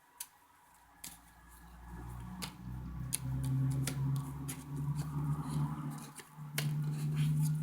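Tarot cards being shuffled and drawn: a series of sharp card snaps and clicks at irregular intervals.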